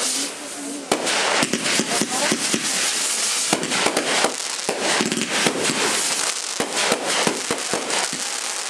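Fireworks going off in a rapid, irregular run of sharp cracks and pops over a constant crackling hiss.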